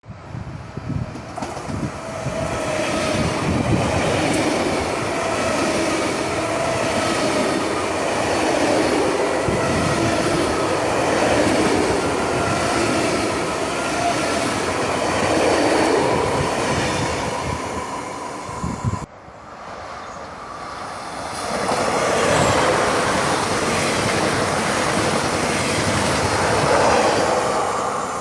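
Trains passing at speed without stopping: wheels rumbling and clattering on the rails, with a whining tone over the noise. The sound cuts off abruptly about two-thirds of the way through, and a second train passing follows.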